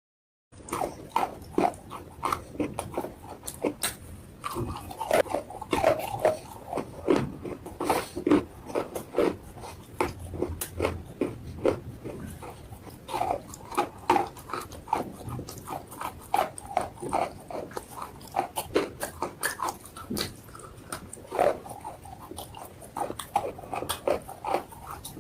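Close-up crunching and chewing of chalk and slate pencil in the mouth: a dense, irregular run of sharp crunches that starts after a brief cut to silence.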